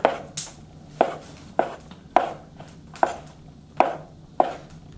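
Kitchen knife cutting a log of leavened bun dough into portions, each cut ending in a sharp knock on the cutting board, in an even rhythm of a little under two a second.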